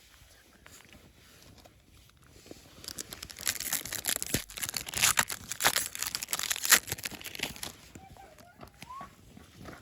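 Foil trading-card booster pack being torn open and crinkled in the hands, a dense crackling rustle lasting several seconds from about three seconds in.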